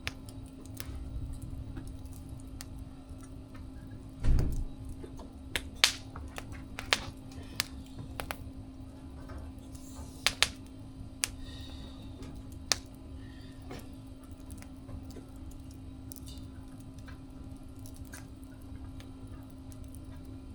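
Wood fire crackling, with sparse sharp pops and snaps, several close together between about six and thirteen seconds in, and a dull thump about four seconds in. A steady low hum runs underneath.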